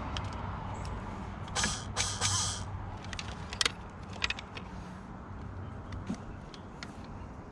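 Handling noises from hands-on wiring work: a few short scrapes, then scattered sharp clicks, over a low steady hum that fades out about halfway through.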